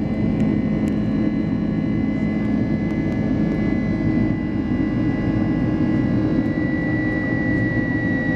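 Boeing 767-300's jet engines running steadily, heard from inside the passenger cabin: a constant rumble with a high, steady whine on top.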